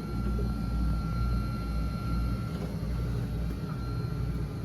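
Steady low machinery hum in a boat's engine bay, with a faint high steady whine over it that drops out briefly about halfway through.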